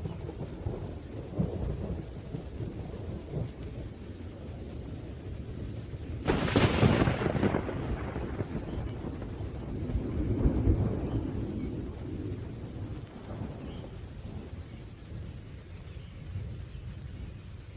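Thunderstorm: rain falling under continuous low rolling thunder, with a sudden sharp thunderclap about six seconds in that rumbles away over the next few seconds. Another swell of rumbling thunder comes around ten seconds in.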